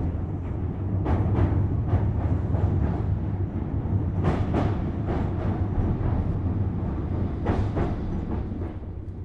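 Tobu Series 6050 electric train running, heard from inside the motor car: a steady low rumble with paired clacks as the wheels pass over rail joints. It gets a little quieter near the end.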